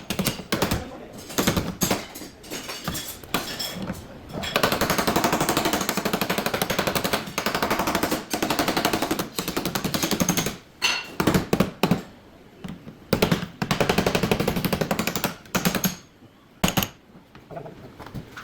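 Car body repair on sheet metal: scattered sharp knocks, and two long bursts of a rapid rattling power tool, the first several seconds long and the second shorter near the end.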